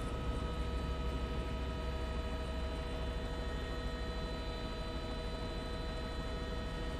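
Steady drone of a helicopter cabin picked up through the crew's microphone: a low rumble with several steady whining tones above it.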